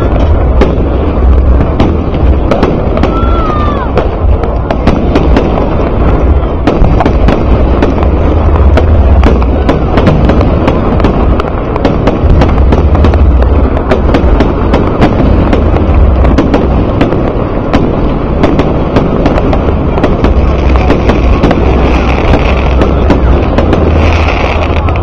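A large fireworks display heard from afar: a dense, unbroken stream of crackling bangs over a steady low rumble.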